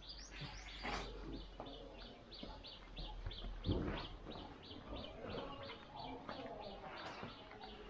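Bird chirping: a short, high chirp repeated steadily about five times a second, with a few other faint calls.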